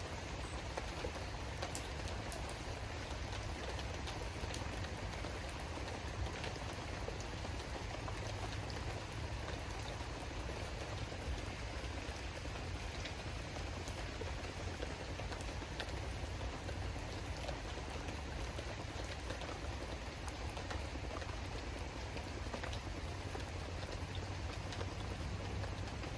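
Steady rain falling, with scattered drops ticking, over a steady low rumble.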